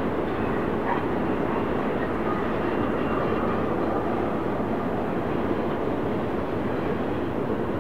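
Freight train running past with a steady, unbroken rumble of wheels and cars on the rails.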